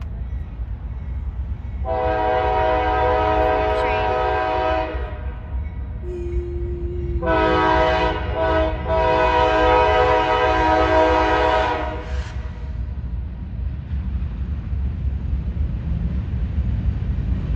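Norfolk Southern freight locomotive's air horn sounding two long blasts, the second with a brief break in it, over the steady rumble of the train.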